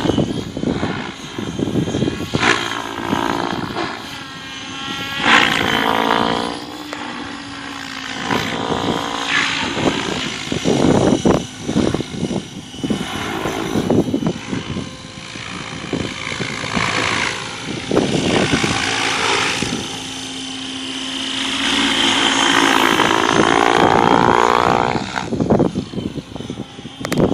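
Align T-REX 800 radio-controlled helicopter in flight, its rotor blades and drive giving a pitched whine and blade noise that rise and fall again and again as it swoops through passes and 3D manoeuvres.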